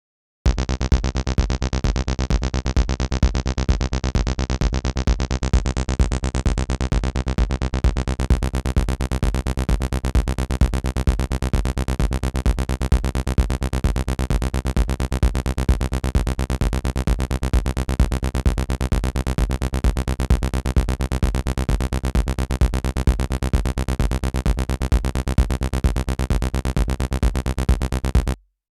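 Acid electronic music from an AcidMachine: a synth bassline over a steady drum-machine beat. It starts about half a second in, gets brighter about eight seconds in, and cuts out for a moment near the end.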